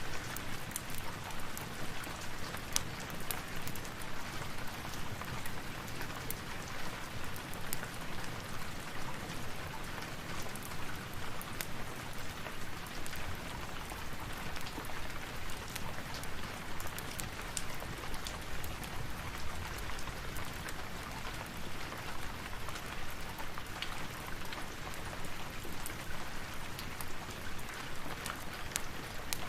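Steady rain falling, an even hiss with many small sharp ticks scattered through it.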